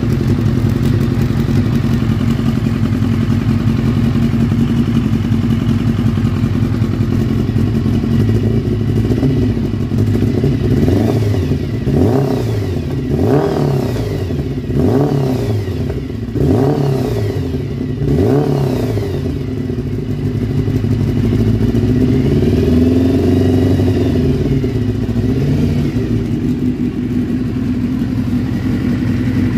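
Kawasaki ZZR600 motorcycle's inline-four engine running steadily, then revved up and down about five times in quick succession from about ten seconds in, settling back to a steadier run with one slow rise and fall in revs near the end.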